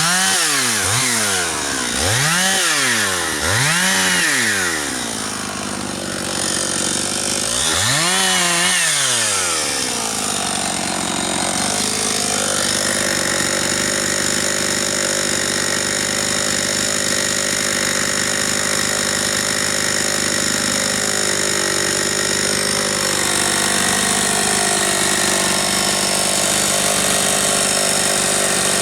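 Husqvarna 272XP two-stroke chainsaw blipped up and down in several quick revs, then held at high revs in a long steady run from about ten seconds in, cutting firewood.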